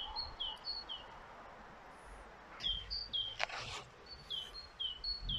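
A songbird singing a repeated two-note phrase, a short high note dropping to a lower one, about twice a second in bursts. A single sharp clack and some rustling come from handling the food about halfway through.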